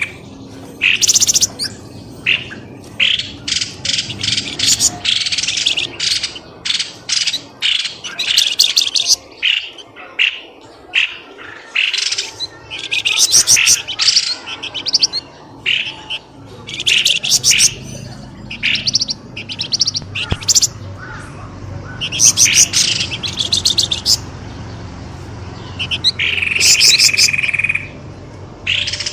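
Pelamboyan bird calling in the noisy style used as a bird-lure call: rapid clusters of sharp, high chirps repeated throughout, with one long steady whistled note near the end.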